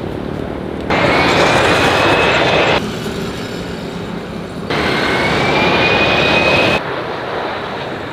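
Airliner jet engine noise heard in short clips that change abruptly about every two seconds. Some clips carry a high whine that rises in pitch, as engines spool up.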